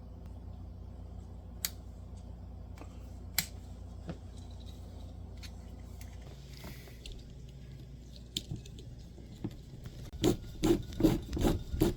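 Hand-tool work on a corkscrew's small foil cutter: a few scattered sharp clicks, then a quick run of loud scraping, rasping strokes near the end as the part is drilled or screwed.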